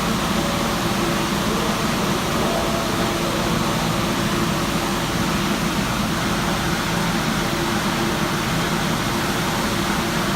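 New York City subway train running steadily, a constant rumble and hiss of wheels and motors with a faint steady hum.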